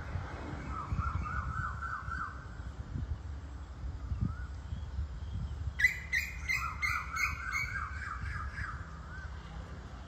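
Birds calling in quick series of short repeated notes: a short run about a second in, then a louder, sharper run about six seconds in with a second, lower bird answering. A steady low rumble sits underneath throughout.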